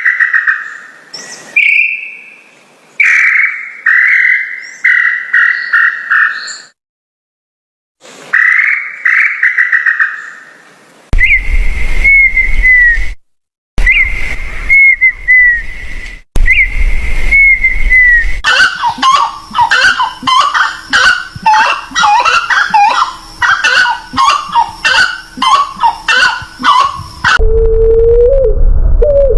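A string of different bird songs cut one after another: series of clear whistled notes with short pauses, a few slurred whistled phrases, then a dense chorus of many birds chirping together, and low repeated hoots near the end.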